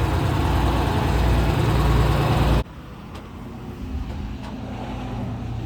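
Engine of a 1984 Pierce Dash fire truck running with a loud, steady low rumble; about two and a half seconds in the sound drops abruptly to a much quieter engine hum.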